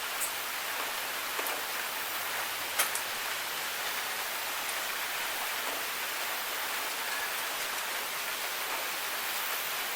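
Steady rain falling on hard surfaces, an even hiss with the odd sharper drop tick; one loud drip just before three seconds in.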